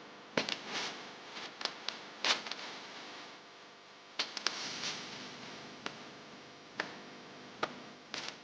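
About a dozen short, sharp clicks and taps at irregular intervals over a faint steady hiss.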